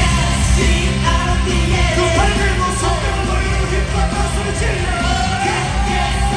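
A pop song played loud through a concert sound system, with steady heavy bass and a voice singing over it.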